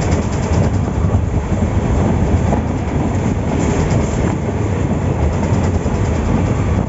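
Passenger express train running, heard from aboard a coach: a steady rumble with the wheels' clickety-clack over the rail joints.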